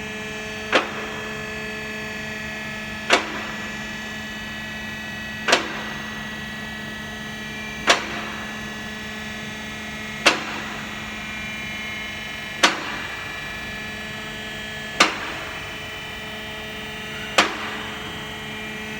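Electric-hydraulic car lift's pump motor humming steadily as it raises the car, with a sharp click about every two and a half seconds as the lift's safety locks drop past each notch, eight in all.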